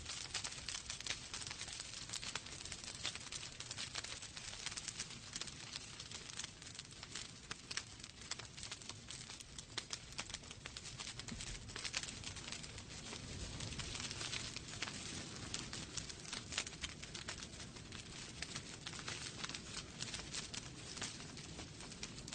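Wood fire crackling in a fireplace: a dense, irregular run of small pops and snaps over a soft steady hiss.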